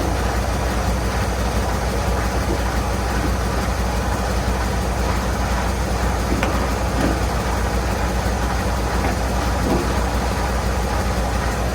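Semi-truck's diesel engine idling, a steady low rumble, with a few faint clicks and knocks over it.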